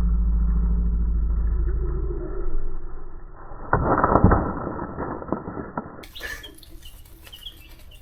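A loud low rumbling hum, with a short burst of rustling clatter about four seconds in, then faint high peeping of baby chicks near the end.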